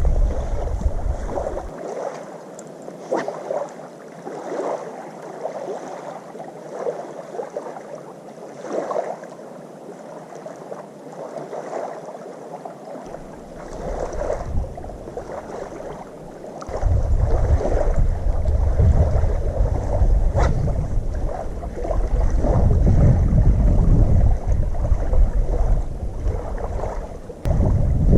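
Wind buffeting the microphone over small waves lapping. The wind rumble drops away for a stretch early on and comes back strongly after about 17 seconds.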